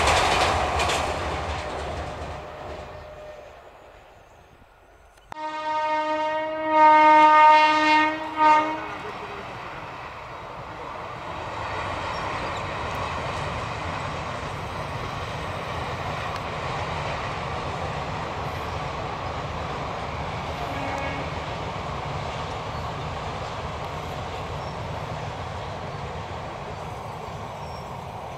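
Passenger train on a steel girder rail bridge running away and fading over the first few seconds. After a short lull, a locomotive horn sounds one long blast of about three seconds, followed by a brief second toot. Then the steady sound of a train running over the rails fills the rest.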